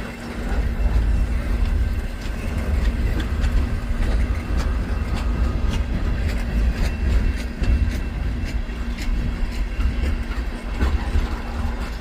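Freight train moving through a rail yard: a steady diesel locomotive hum over a heavy low rumble, with scattered sharp clicks of wheels over rail joints.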